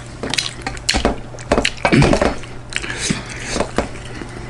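Eating sounds up close: a handful of short, light clinks and scrapes of tableware on a plate, spaced irregularly, over a steady low hum.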